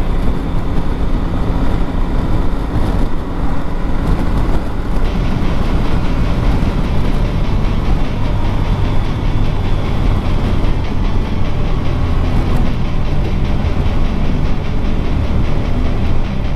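Motorcycle riding noise: a Triumph Tiger 1200's three-cylinder engine running at road speed, mixed with steady wind rush on the camera microphone.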